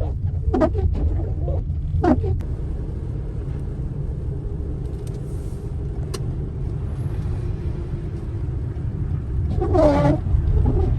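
Steady low rumble of a car driving, heard from inside the cabin. Brief snatches of a voice come in about half a second and two seconds in, and again near the end.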